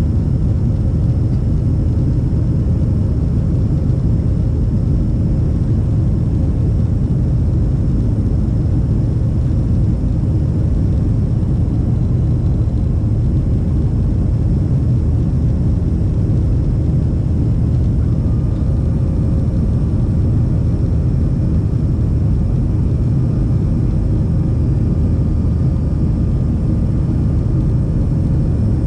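Steady cabin noise inside a Boeing 737-500 jet airliner: an even low rumble of the engines and airflow, with a faint steady whine that joins about two-thirds of the way through.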